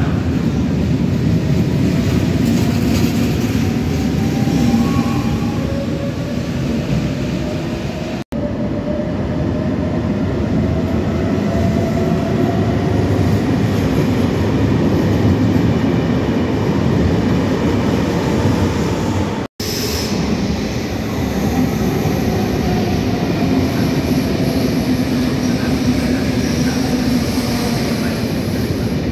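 Electric double-deck suburban trains running through an underground station: a steady, echoing rumble of wheels on rails, with a motor whine that rises in pitch. The sound breaks off for an instant twice.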